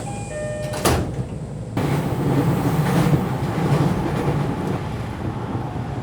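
Electric local train running, heard from inside the carriage: a steady rumble of wheels on rails, with a sharp click about a second in.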